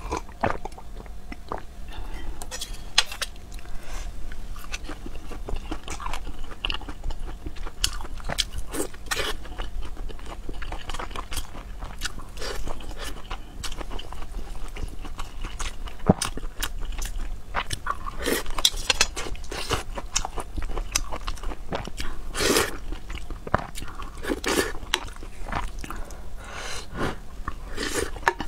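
Close-miked eating sounds: a person chewing mouthfuls of fried rice with braised meat, with many short sharp clicks and smacks. The sounds are louder from about two-thirds of the way in.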